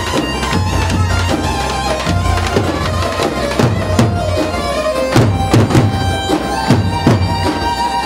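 Turkish folk dance music: a reedy wind-instrument melody over a steady low drone and regular drum beats.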